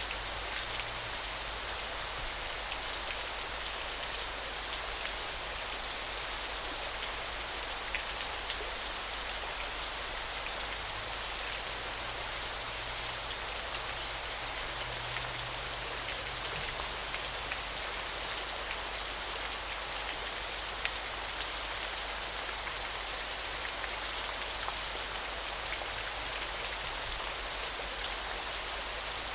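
Steady rushing of flowing river water. A high, thin sound rises above it for several seconds in the middle, and short high chirps repeat several times near the end.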